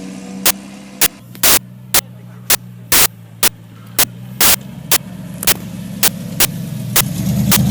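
An engine running with a steady low drone under loud, sharp pops about twice a second; the drone grows louder near the end.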